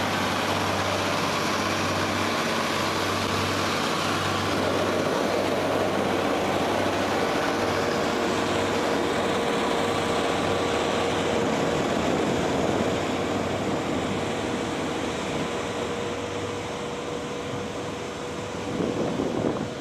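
Heavy machinery running: a steady engine drone with a constant whine that sets in about seven seconds in.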